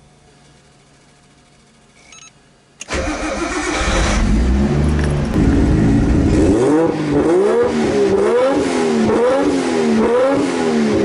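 Nissan Skyline R32's RB25DET turbocharged straight-six engine starting about three seconds in with a loud low rumble. From about six and a half seconds on it is revved up and down again and again in quick blips.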